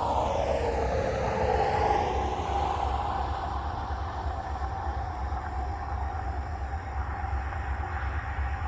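Diesel freight train of EMD SD40-2 locomotives approaching, with a steady low engine rumble throughout. A broad whooshing sound falls in pitch and peaks over the first two seconds, then settles into a steady rushing noise.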